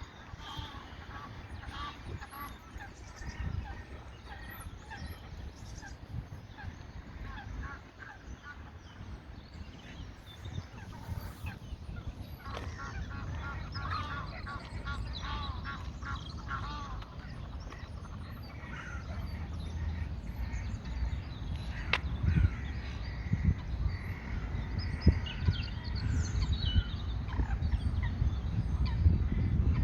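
Geese honking in runs of quick repeated calls, busiest about halfway through. Under them is a steady low rumble that grows louder toward the end, with a few low thuds.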